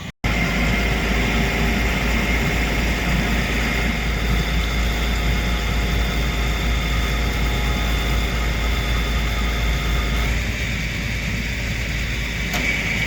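Flatbed tow truck's engine running steadily with a constant high whine over a low rumble, the tone shifting slightly about ten seconds in as the pickup is loaded onto the deck.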